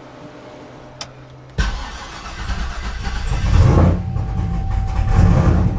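Supercharged 6.2 L LSA V8 in a Trailblazer SS bursts into loud, uneven running about a second and a half in and swells louder around the middle. The engine is still untuned, running on 90-pound injectors.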